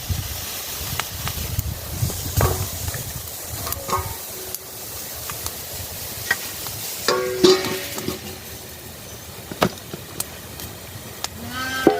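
Food sizzling in a cooking pan, a steady hiss, with scattered clicks and knocks of a utensil stirring it and a short ringing clatter about seven seconds in.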